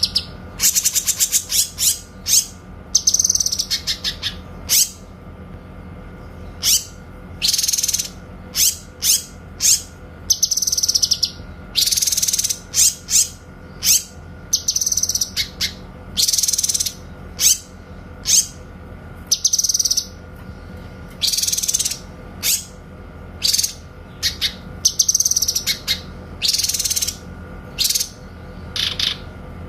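A cucak kinoy singing in short, clear, high-pitched bursts with brief pauses between them, the sharp 'tembakan' (shot) calls prized in masteran recordings. There is a fast rattling trill about a second in. A faint steady hum runs underneath.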